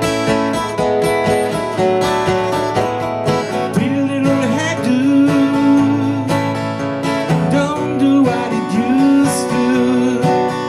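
Acoustic guitar strumming the instrumental intro of a song, with a bending melody line joining about four seconds in.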